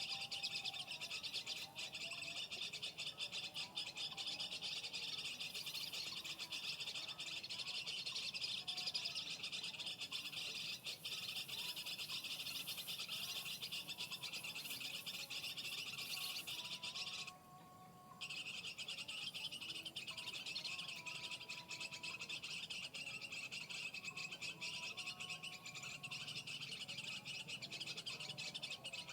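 Dense, continuous chirping of small birds that cuts out abruptly for about a second roughly two-thirds through, with a few fainter, lower whistled calls beneath.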